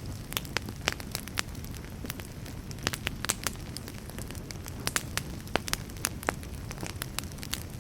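Wood fire burning in a fireplace: a steady low hiss under frequent irregular crackles and sharp pops, some louder than the rest.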